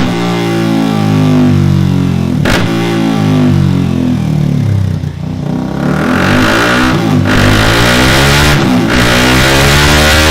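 KTM RC390's single-cylinder engine revving through an aftermarket Delkevic DL-10 carbon fibre round muffler while running on a dyno. The pitch falls away after a short break about two and a half seconds in and dips around halfway. From about six seconds it pulls hard again with a harder rasp, broken twice by short gaps near the end.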